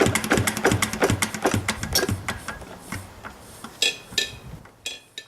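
Yanmar NK2 diesel engine's beats slowing and fading as it runs down to a stop, followed by a few ringing metallic clinks.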